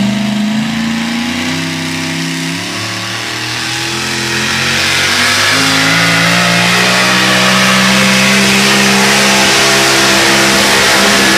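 Super modified four-wheel-drive pulling truck's engine running hard under load down the track. Its pitch shifts in steps at first, then it grows louder about four seconds in and holds a steady high pitch.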